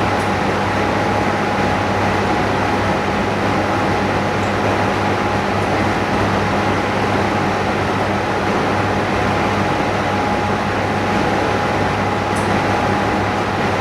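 Steady machine hum and hiss from running workshop equipment, even throughout, with a low electrical hum and a thin steady whine.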